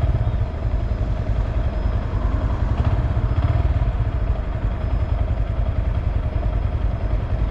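2022 Honda Grom's small single-cylinder engine running steadily at an even speed, with fast, even firing pulses.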